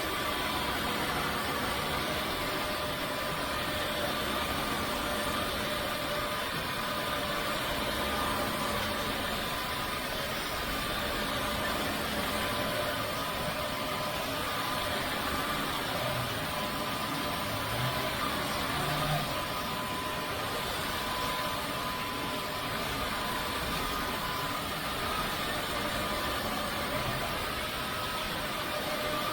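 Narwal S30 wet-dry vacuum mop running steadily in its intelligent cleaning mode: an even motor noise with a thin, steady whine.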